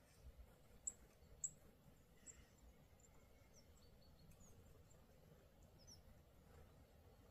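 Near silence broken by scattered short, high chirps of small birds at a winter feeder, the two loudest about a second in.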